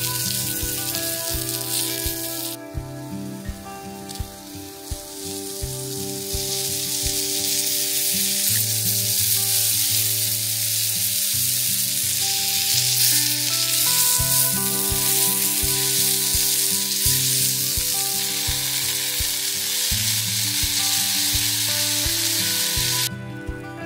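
Oysters sizzling in butter in a thin 1 mm iron skillet over a solid-fuel burner. The frying hiss grows louder about six seconds in and cuts off abruptly just before the end. Background music plays underneath.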